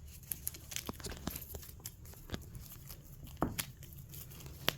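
Faint crinkling and scattered light clicks of a cat toy being handled, with a sharper click a little past three seconds in.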